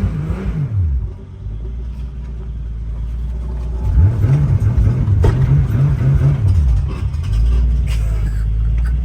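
Car engine and exhaust running loud and low, its pitch rising and falling again and again from about four seconds in. The exhaust has fallen off, so the car is running without its exhaust properly hung.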